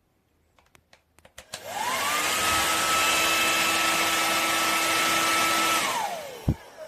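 Remington Thermacare PRO 2300 hair dryer: after a few clicks it is switched on, and its motor whine rises quickly to a steady pitch under a loud rush of air. About six seconds in it is switched off, the whine falls away, and a sharp click follows.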